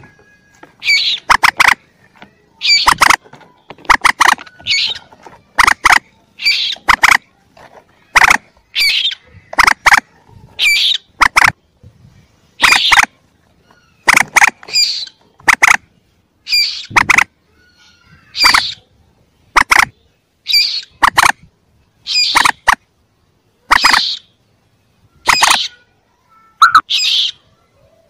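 Common moorhen chick calls from a hunters' lure recording: short, sharp calls, each a quick cluster of notes, repeating about once a second with brief silences between.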